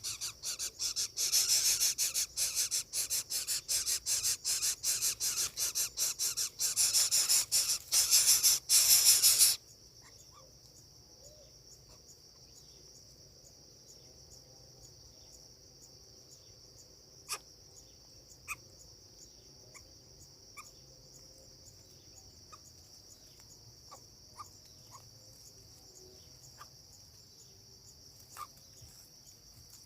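Coucal nestling's rasping begging buzz, a rapid pulsing rasp that is loud for about the first ten seconds and cuts off suddenly. After it comes a steady high insect drone with scattered faint ticks.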